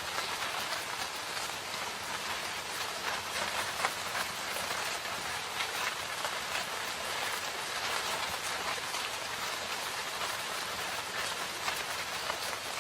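Steady rain falling in a forest: an even hiss of rainfall with many individual drops pattering through it.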